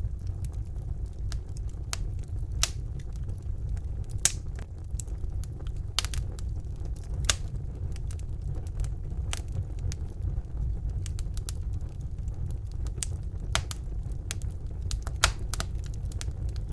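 Wood fire burning in a fireplace: a steady low rumble of the flames with irregular sharp crackles and pops of the burning logs, a few louder pops scattered through.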